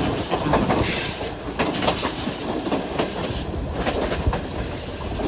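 Passenger train running along the track: a steady rumble with wheels clicking over rail joints and a high-pitched squeal of wheel on rail about a second in and again later.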